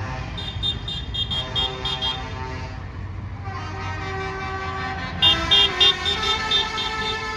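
Lorry horns sounding in repeated short toots over the low rumble of passing engines, with three loud blasts a little past five seconds in.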